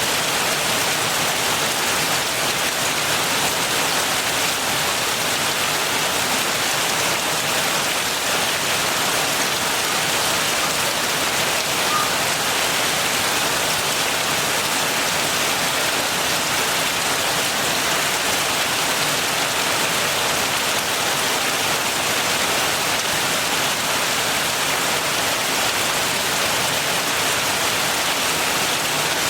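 Steady heavy rain falling and pattering on surfaces, an even wash of sound with no thunder.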